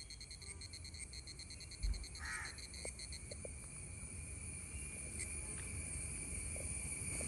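Cicada buzzing: a high, rapidly pulsing buzz that runs into a steadier drone in the second half, over a low rumble, with a thump about two seconds in.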